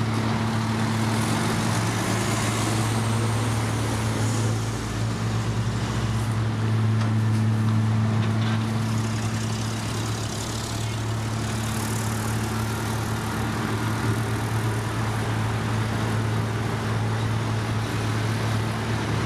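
Diesel engine of heavy road-construction machinery running steadily, a constant low drone.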